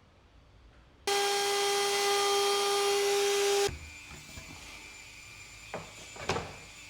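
A woodworking power tool's electric motor running at high speed with a steady whine, starting suddenly about a second in and cutting off abruptly after about two and a half seconds. Near the end come a couple of sharp knocks.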